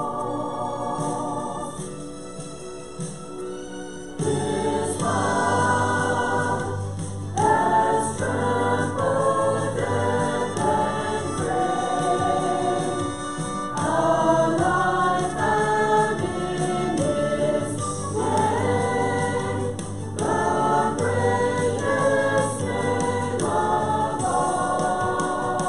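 Several voices singing a gospel hymn together with instrumental accompaniment. The opening is softer, and the fuller accompaniment with bass comes in about four seconds in.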